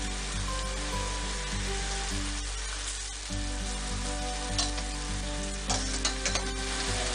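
Tempeh strips sizzling steadily as they fry in hot olive oil in a stainless steel pan. Metal tongs click against the pan a few times in the second half as the strips are turned.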